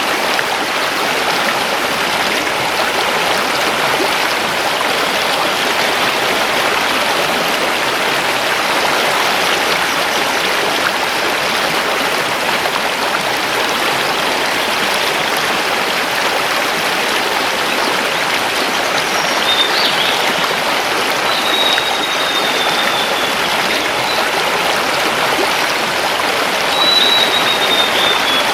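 Mountain river rushing over stones, a steady, even rush of water. In the second half a forest bird gives a few short high whistles over it.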